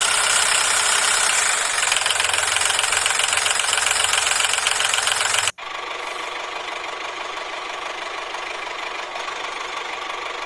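Small motor running with a fast knocking rattle, cutting off abruptly about five and a half seconds in to a quieter steady running sound.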